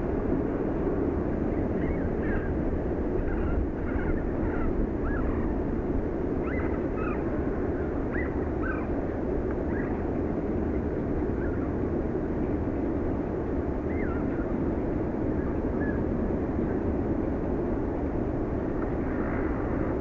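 Short, faint bird chirps, several in the first half and a couple more later, over a steady low outdoor rumble.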